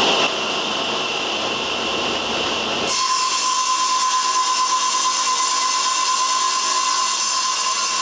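A CNC machine running: a steady hiss with a high whine for about the first three seconds, then an abrupt change to a different steady hiss carrying a clear, constant whine.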